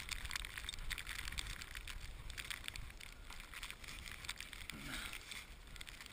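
Footsteps crunching and swishing through deep snow in an irregular walking rhythm, over a steady low rumble of wind on the microphone.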